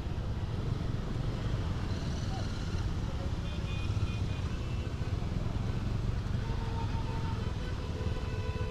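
Motorcycle on the move: a steady low rumble of engine and wind noise. A short pitched tone sounds about three and a half seconds in, and a longer held pitched tone starts about six and a half seconds in.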